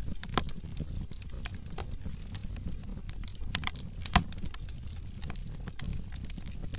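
Wood fire burning in a fireplace: a steady low rumble of flames under a stream of sharp crackles, with one loud pop about four seconds in.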